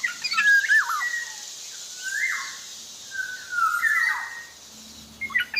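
Black-naped oriole (kepodang) singing vigorously: a fluty whistled phrase with swooping notes near the start, then two drawn-out sliding calls, and another whistled phrase beginning near the end, over a steady hiss.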